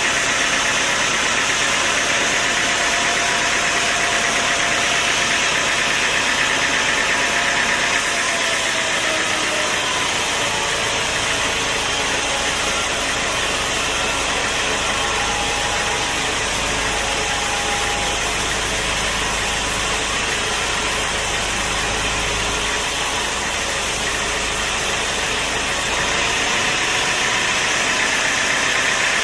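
An engine running steadily, with a dense, even noise over it.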